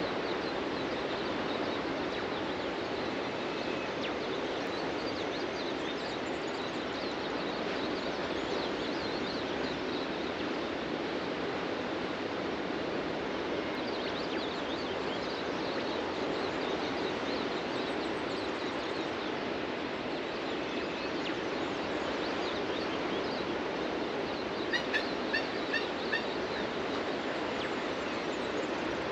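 Steady rush of ocean surf on a beach, with faint bird chirps scattered over it. About 25 seconds in, a bird gives a quick run of about five loud, sharp calls.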